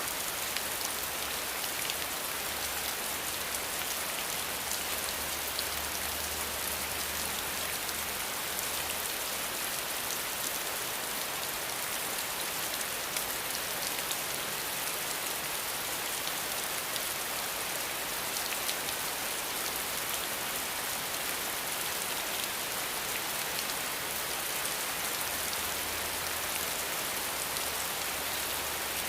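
Steady rain falling, an even hiss with a dense patter of individual drops hitting a surface.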